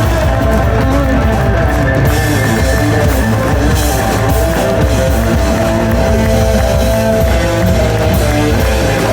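Live rock band playing an instrumental passage: electric guitar and drum kit, with steady loud bass.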